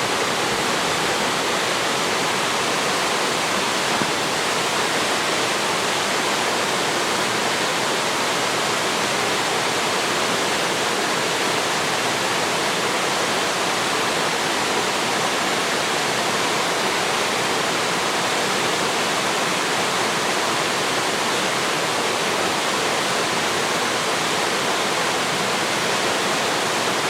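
Mountain waterfall pouring into its pool: a steady, even rush of falling water.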